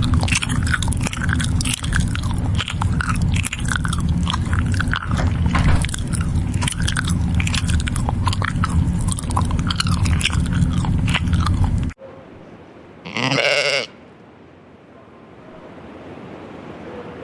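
Loud crunching and crackling over a steady low hum that stops abruptly, then a goat bleats once, briefly.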